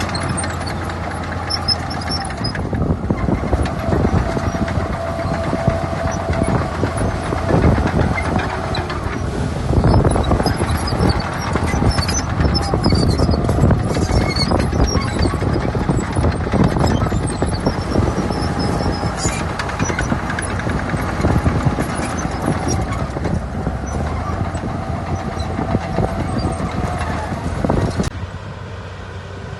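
Heavy diesel earthmoving machinery working in sand: engine running under load with dense metallic clanking and rattling and a faint steady whine. The sound drops suddenly to a quieter engine sound about a second and a half before the end.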